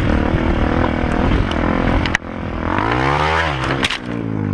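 Dirt bike engine running, revving up and back down once about three seconds in, with abrupt breaks in the sound just after two seconds and near four seconds.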